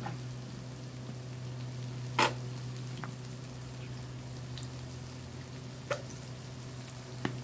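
Ground meat and chili seasoning mix sizzling quietly in a hot aluminum wok, over a steady low hum. A sharp click sounds about two seconds in, with a few fainter ticks later.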